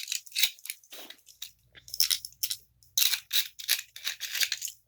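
Plastic Beyblade parts being handled, a run of quick irregular clicks and rattles, with a faint low hum underneath from about a second in.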